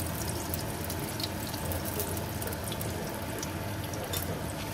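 Steady sizzling and fine crackling of food cooking in frying pans: julienned burdock glazed in soy sauce and a thin egg omelette, with a steady low hum underneath.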